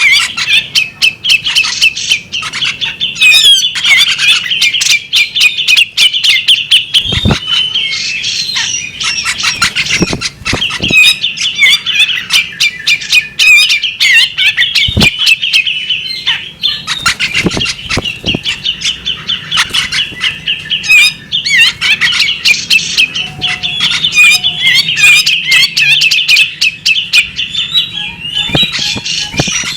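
Female bearded magpie robin calling loudly and without pause: a rapid stream of chirps and sharp clicking notes, with a few low thumps scattered through.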